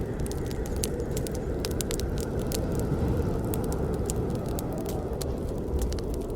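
Wood fire burning, with a steady low rushing hiss and frequent irregular sharp crackles and pops of the burning logs.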